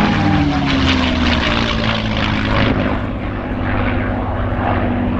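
Propeller-driven aircraft flying past, its engine note falling slowly in pitch and then holding steady.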